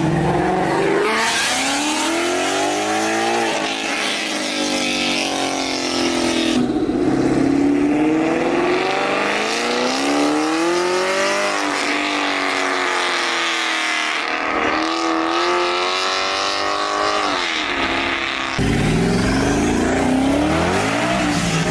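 A car engine revved hard over and over, its pitch climbing and dropping back every couple of seconds, over a loud steady hiss of tyres spinning in a burnout. Near the end the hiss stops and the engine runs lower and rougher.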